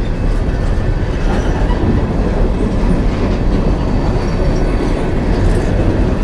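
A long coal train's cars rolling past, with a steady rumble of steel wheels on the rails.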